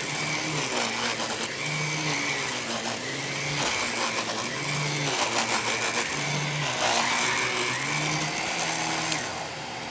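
Aerus Lux Guardian upright vacuum running with its Sidekick motorized brush attachment switched on: a steady motor drone with lower tones that waver and come and go.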